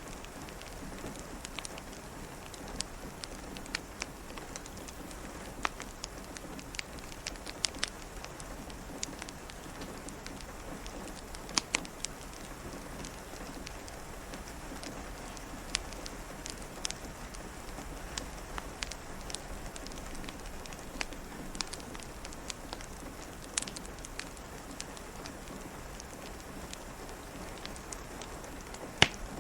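Steady rain falling, with irregular sharp pops and crackles from a wood fire in a fireplace scattered through it.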